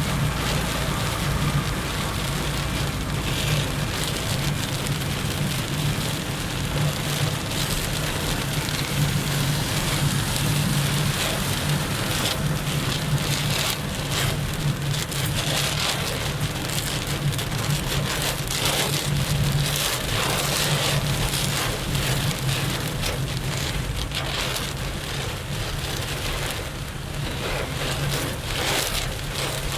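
Heavy rain drumming on a vehicle, heard from inside, over a steady low hum.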